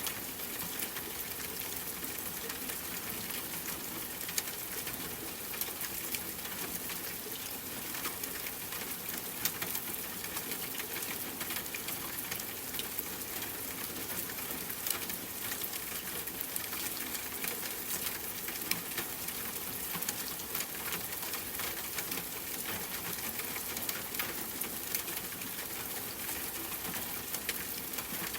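Steady rain falling, an even hiss with many separate drops ticking throughout.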